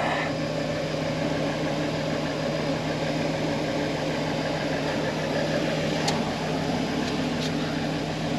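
An engine running at a steady drone with a faint rapid low beat, unchanging in pitch, with two faint clicks about six and seven seconds in.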